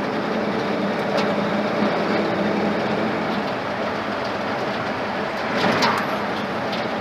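Truck with a freshly rebuilt Ford flathead engine driving along at steady speed: a low engine drone mixed with road and rattle noise. There is a brief louder swell near the end.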